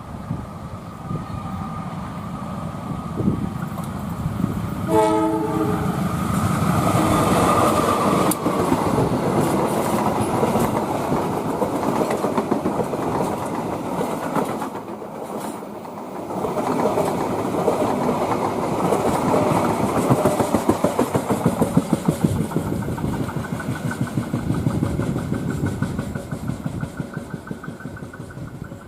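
Passenger train passing close by. A short horn blast of several tones sounds about five seconds in. Then the carriages go past with a steady rumble, and the wheels beat out an even clickety-clack over the rail joints in the second half.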